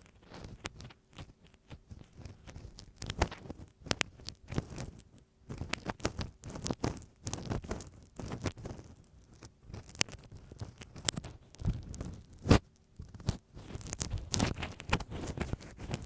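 Ear pick scratching and tapping over masking tape stuck on a TASCAM recorder's microphone: an irregular run of crackly scrapes and sharp ticks close to the mic, with one louder knock about twelve seconds in.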